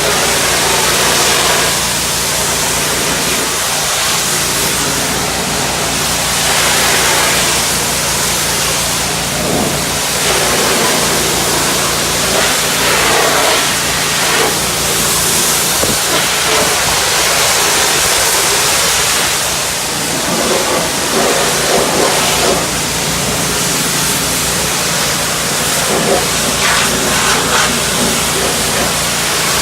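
Pressure washer running steadily: a loud hiss of high-pressure water spray over the engine's low, even hum.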